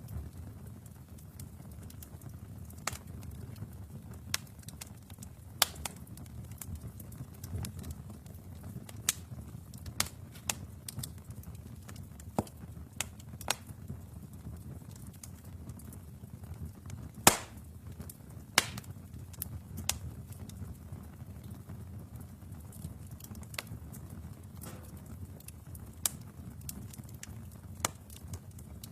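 Wood fire burning in a fireplace: a steady low rumble of flames with irregular sharp crackles and pops from the logs, one loud pop about two-thirds of the way through.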